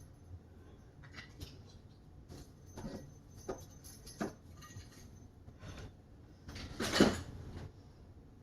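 Light clinks, taps and knocks of Christmas decorations being taken down and handled, several spaced out and the loudest about seven seconds in.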